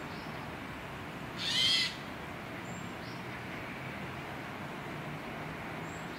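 A bird's single shrill call about a second and a half in, over a low steady hum and a few faint high chirps.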